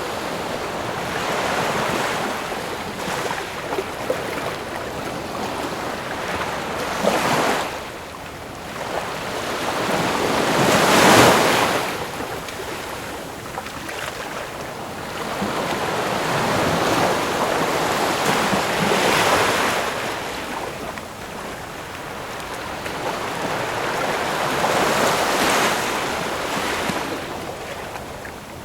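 Ocean waves breaking and washing on a shore, coming in swells every few seconds, the largest breaking about eleven seconds in.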